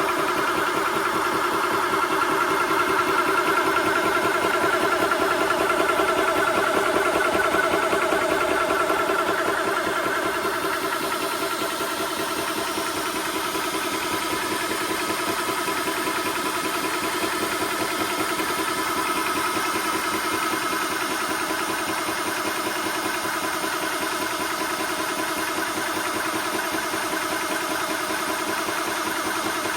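Portable high-pressure PCP air compressor (TOAUTO A1X) running steadily: a fast-pulsing mechanical drone with a few steady tones, dropping slightly in level about ten seconds in.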